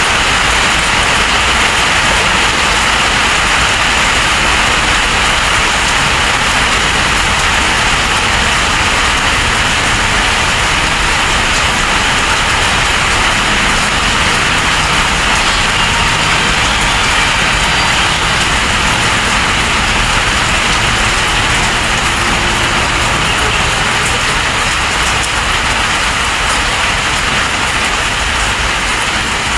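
Heavy storm rain pouring down in a loud, steady hiss.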